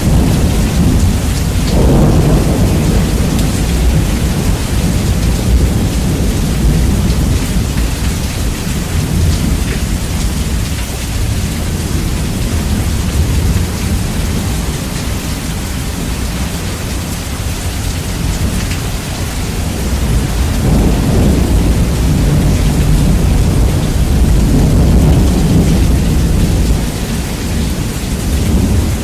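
Heavy rain with rolling thunder, the bass heavily boosted so the low end dominates. The thunder swells briefly about two seconds in and again for several seconds in the second half.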